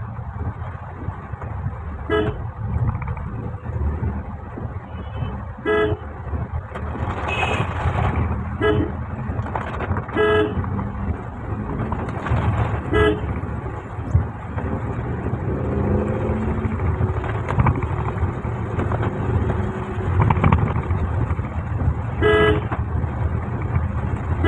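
Short vehicle horn toots, about eight over the stretch, sounding over the steady low rumble of a car driving slowly on wet, rain-soaked city roads.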